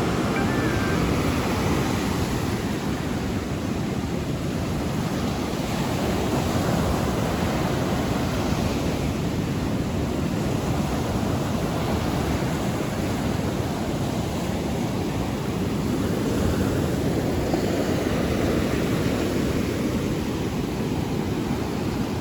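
Ocean surf washing in steadily under strong wind buffeting the microphone with a low rumble; the level swells and eases gently.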